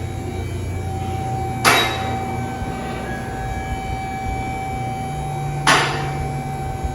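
Repair-shop machinery noise: a steady low mechanical hum with a steady whine over it, broken twice by a short burst of hiss about four seconds apart.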